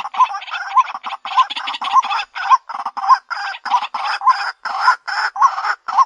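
White-breasted waterhen calling continuously: a harsh, croaking 'ruak-ruak' series with a short hooked note repeated nearly twice a second.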